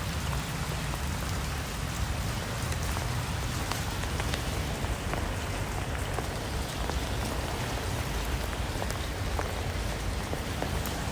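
Steady rain falling, with scattered individual drops ticking on a surface over an even hiss and a low rumble.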